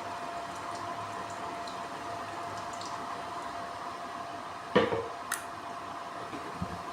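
A steady machine hum with a faint held tone, broken about five seconds in by a sudden short wet squelch of liquid, then a light click and a couple of soft knocks.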